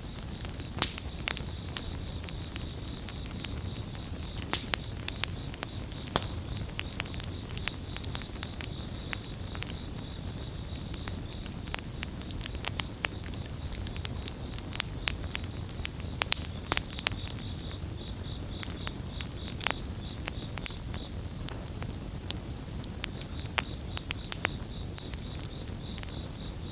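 Campfire crackling, with irregular sharp pops over a low steady rumble, and crickets trilling steadily on one high note. The trill drops out for a couple of seconds about three-quarters of the way through.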